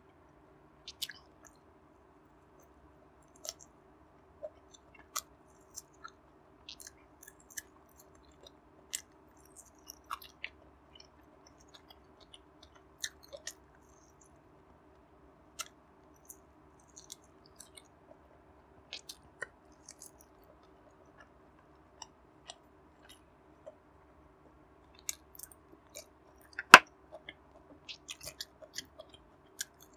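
Close-miked chewing of air-fried barbecue pork belly, with scattered short mouth clicks and smacks over a faint steady hum. One sharp, louder click near the end.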